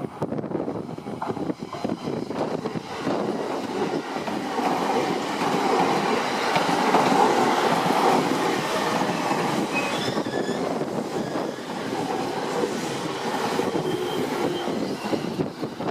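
Electric commuter train running past over a level crossing: the wheels clatter over the rail joints, with a light wheel squeal. It is loudest about seven seconds in.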